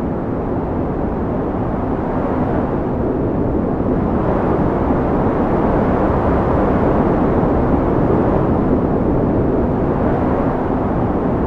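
Strong wind blowing: a steady, deep rushing noise that swells a little in the first half.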